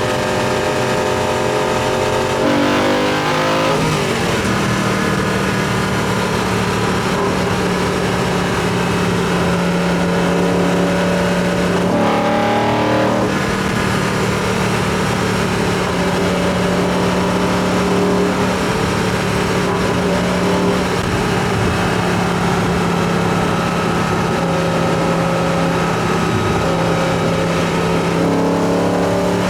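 BMW E90 M3's 4.0-litre V8 with an Eventuri carbon intake and carbon plenum, driving with its induction sound to the fore. Mostly a steady engine note, with revs dropping about three seconds in, another change in revs around twelve seconds, and revs rising near the end.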